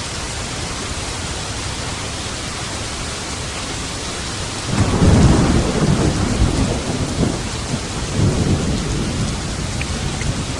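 Steady heavy rain, with a roll of thunder about halfway through: a sudden deep rumble that rolls on for several seconds and slowly fades under the rain.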